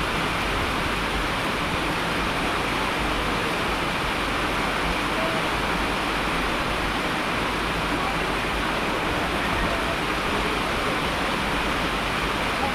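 Steady rain, an even hiss with no breaks or changes.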